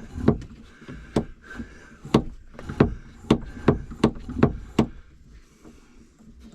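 Repeated sharp knocks and clacks of hard cabin fittings being handled, about a dozen irregular strikes over five seconds, then they stop.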